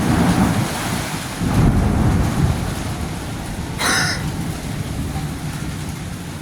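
Thunderstorm wind and rain: gusts buffet the microphone with low rumbling surges over a steady rush of rain.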